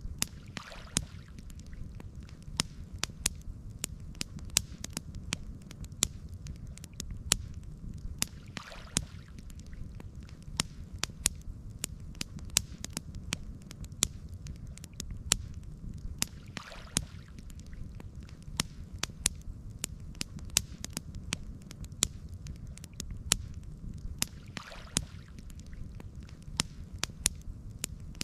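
Wood campfire crackling, with frequent sharp pops over a steady low rumble. A soft swish comes back about every eight seconds.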